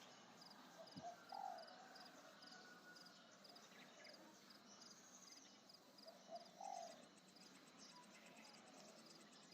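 Near silence with faint outdoor ambience: two short animal calls, one about a second in and another near seven seconds, over a faint, regular high ticking.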